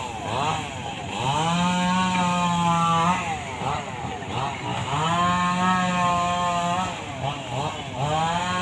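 Chainsaw revved up and held at full throttle for about two seconds, three times, falling back toward idle in between: the pattern of cutting, here likely through storm-felled wood.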